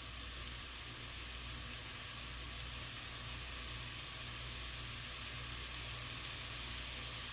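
Finely chopped onions and habanero pepper sizzling steadily in hot oil as they sauté.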